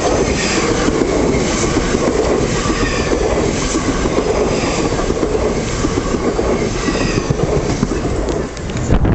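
Train running along the track at the station: steady rumble and wheel clatter over the rail joints, with faint high wheel squeal. Near the end a heavy low knock, after which the noise drops away.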